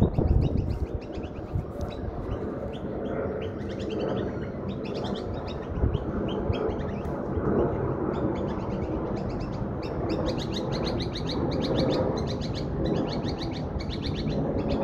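Birds chirping in runs of short, rapidly repeated high notes, busier in the second half, over a steady low background rumble.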